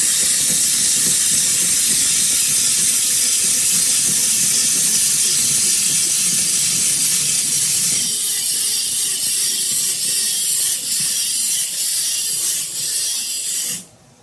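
Loud, steady hissing noise that changes slightly about eight seconds in and cuts off just before the end.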